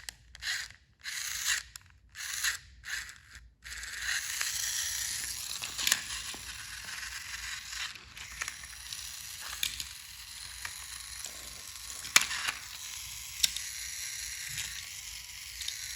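Small battery-powered toy train engine's motor and gears whirring, cutting out in several short breaks over the first few seconds and then running steadily with scattered clicks. It makes a weird speeding up.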